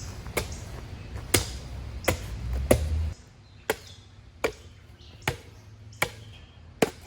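A shovel blade chopping into the hard-packed top layer of a dirt jump to break it up, with nine sharp strikes at about one every 0.8 seconds. A low rumble underneath stops about three seconds in.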